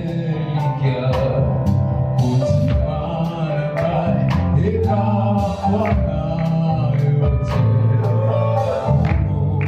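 Live gospel worship music: singing over a band with electric guitar, bass and drums keeping a steady beat.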